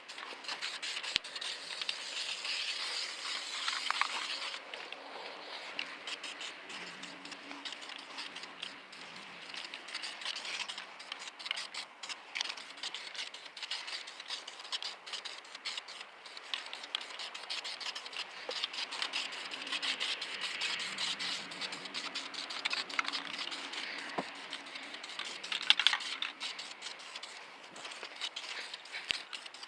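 Spray painting with aerosol paint in a light dusting: the hiss of the spray rising and falling in stretches, with scattered clicks, scrapes and rattles from handling the cans.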